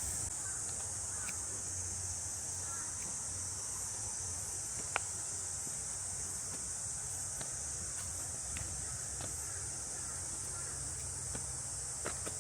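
Summer insects droning in a steady, high-pitched hiss, with a few faint bird chirps and scattered light clicks, one sharper about five seconds in.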